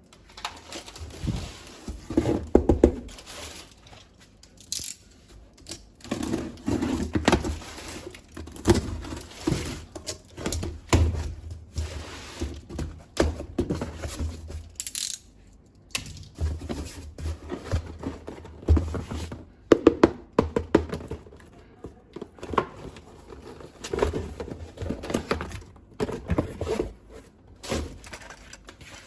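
Plastic toy parts and packaging being handled: irregular knocks, clicks and rustling.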